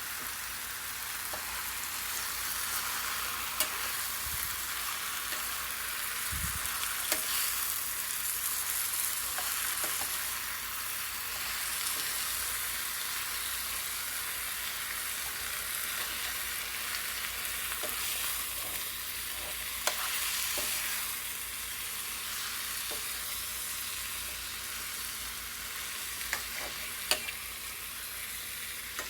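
Marinated chicken sizzling in a pan with sautéed onion and tomato as it is stirred in, a steady frying hiss with a few sharp clicks of the stirring utensil against the pan.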